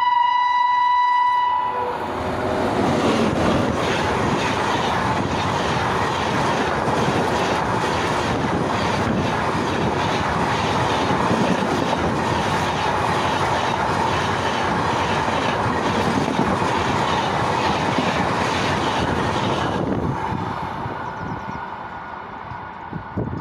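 An electric locomotive sounds one steady horn blast for about the first two seconds. Its passenger train then rushes past at speed, a loud continuous rumble of wheels on rail with rapid clickety-clack from the coaches. The noise fades near the end as the train moves away.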